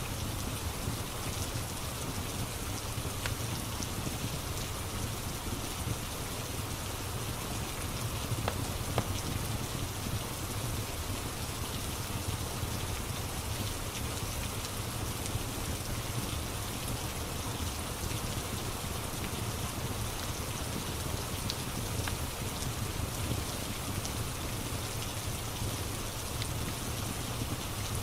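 Steady rain falling, with a few faint pops and crackles from a log fire, one slightly louder about nine seconds in.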